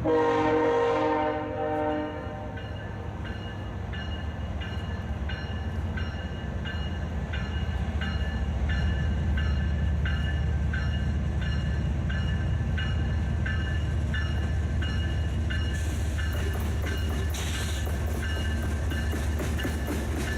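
Diesel freight locomotive horn sounding, ending about two seconds in, then the low rumble of the locomotives growing louder from the middle on, with a bell ringing at an even steady pace.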